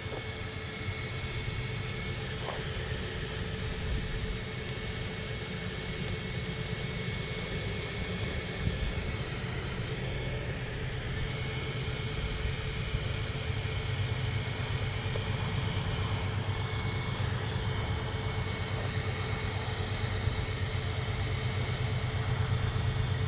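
ARRMA Talion 6S RC car driven slowly back on a lost bearing: a steady low rumble with a faint constant whine, growing gradually louder toward the end.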